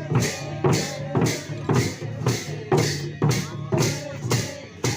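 Drum and cymbal music, about two strokes a second, with a wavering melody over a steady low tone.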